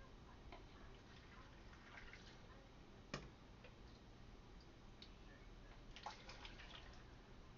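Pickling liquid being poured into jars of green beans: faint trickling and drips, with a sharp click about three seconds in and a few more small clicks near the end.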